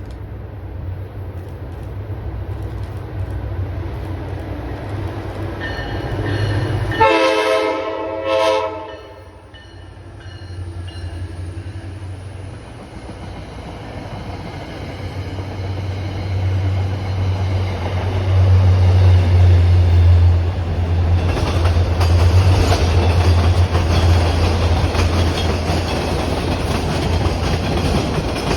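A train's horn sounds about seven seconds in, one longer blast and then a very short one, over the steady low drone of a locomotive. From about sixteen seconds on, the noise of the train running through grows louder and stays loud.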